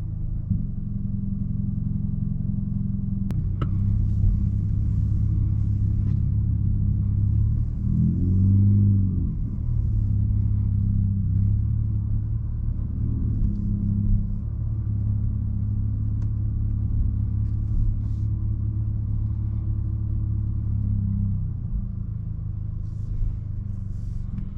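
Straight-piped 2020 Nissan Altima's exhaust droning steadily while driving, its note rising and falling briefly about eight seconds in as the engine revs up and settles.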